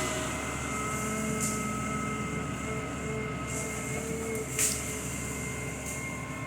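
Diesel engine of a heavy machine running steadily, with a few steady whining tones over it. Short hissing bursts come about one and a half, three and a half and four and a half seconds in, the last with a sharp click.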